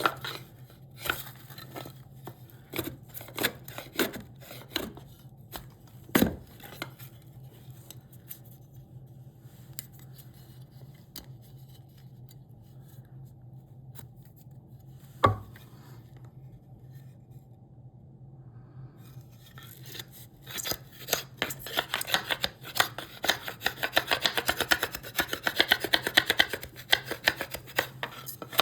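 Hand tools cutting and scraping a piece of cherry wood. First comes a run of sharp taps and cuts, then a quiet stretch broken by one loud knock. About two-thirds of the way in, fast continuous scraping strokes begin.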